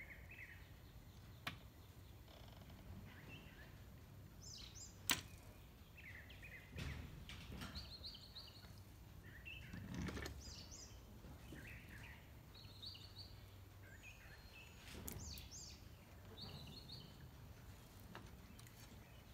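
Faint outdoor ambience: birds chirping on and off, with a few sharp clicks, the loudest about five seconds in.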